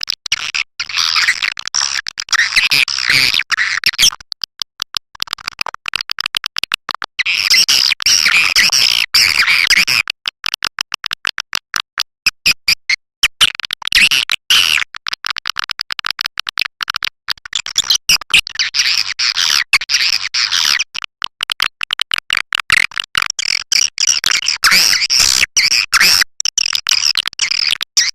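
Swiftlet call lure recording ('raja Kalimantan' type), played to draw swiftlets into a nesting house: dense, high twittering chirps alternate with stretches of rapid clicking, in cycles of a few seconds.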